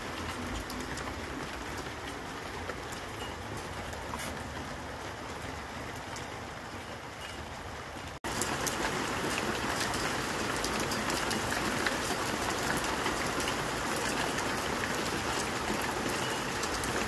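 Steady rain falling, a continuous hiss with scattered ticks of drops. About eight seconds in it cuts off abruptly to a louder, denser stretch of rain.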